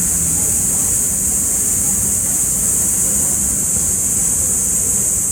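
Steady outdoor city ambience: a low rumble of traffic under a constant high-pitched hiss, with no distinct events.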